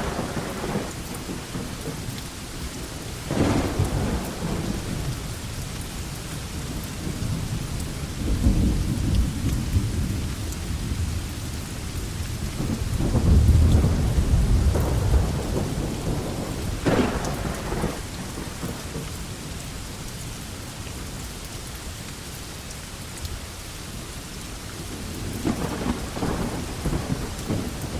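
Steady rain falling on a veranda, with a few louder splashes of water and two low rumbles of thunder, the stronger one about halfway through.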